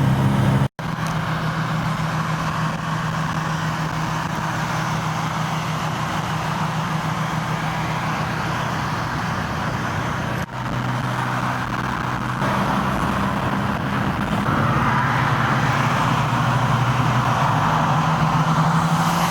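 Car engine hum and road noise heard while driving at steady speed, with the engine note shifting slightly a few times. The sound cuts out completely for an instant twice.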